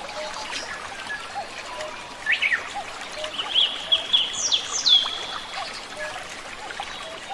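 Wild birds singing in a forest: several short chirps and whistled phrases, the loudest run about two to five seconds in, with quick falling whistles and a steady high note.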